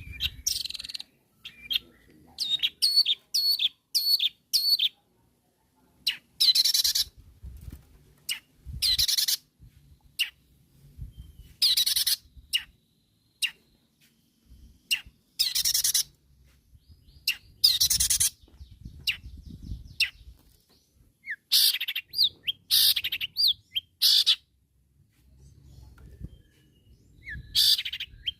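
Long-tailed shrike (cendet) calling in short bursts of rapid, high notes, one burst every couple of seconds.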